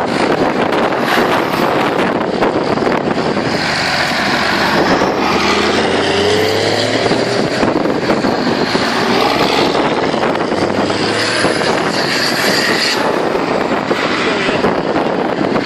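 Tractor engines running, a steady, dense mix of engine noise.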